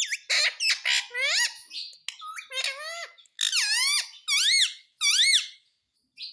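Pet parrot calling: a quick run of high-pitched squawks and whistles that swoop up and down in pitch, breaking off shortly before the end, then one brief call.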